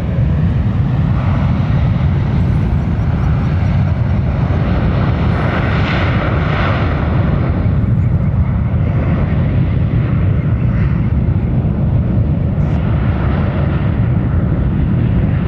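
Jet airliner engines running close by, a steady low rumble with a hiss on top that swells about six seconds in.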